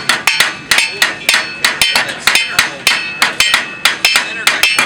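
Several hand hammers striking the hot Damascus face of a post anvil in a fast, irregular stream, about six blows a second, each blow ringing like a bell. The ringing is taken as a sign that the forge weld between face and anvil body is getting solid.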